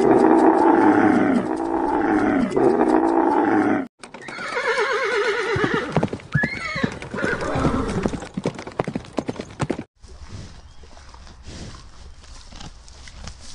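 Dromedary camels calling with loud, deep, wavering calls. After a cut about four seconds in, plains zebras call with faster, pulsing, braying calls. From about ten seconds on only a much quieter, steady outdoor background remains.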